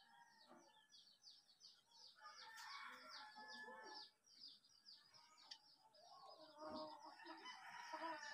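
Faint bird chirping: a quick, steady run of short, high, falling chirps at about five a second, over otherwise near-silent surroundings.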